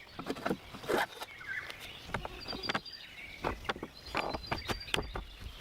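Small birds chirping in short high bursts, mixed with scattered light clicks and knocks.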